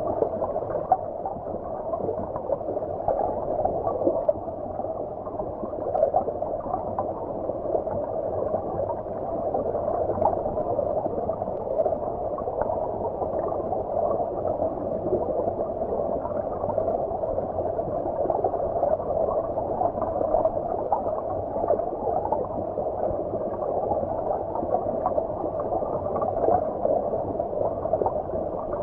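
Stream water gurgling as heard underwater: a steady, muffled churning with the hiss of the surface cut away, flickering constantly without any break.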